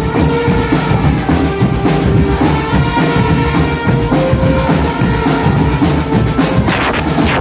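Marching drum band playing: snare and bass drums beating a dense, steady rhythm under a melody of held notes.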